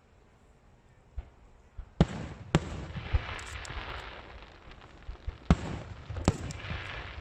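Aerial fireworks shells bursting: quiet at first, then four sharp bangs, a pair about two seconds in and another pair about five and a half seconds in, with steady crackling from the bursting stars in between.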